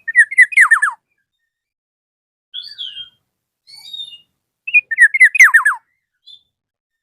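Black-naped oriole calling: two loud phrases, one at the start and another about five seconds in, each a quick run of notes sliding downward, with softer, higher notes in between.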